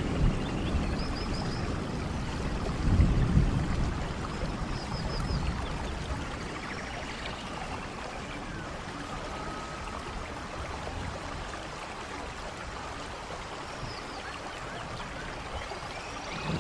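Steady rainfall, with a low rumble of thunder swelling about three seconds in and then fading. A few faint, short, high chirps come through the rain now and then.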